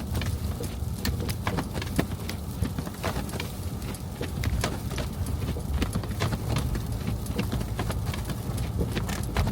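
A car driving, with a steady low rumble of engine and road, and irregular sharp ticks or taps several times a second.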